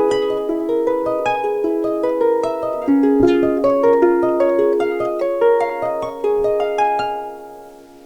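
Solo pedal harp playing a quick run of plucked notes that stops about seven seconds in, leaving the last notes to ring and fade.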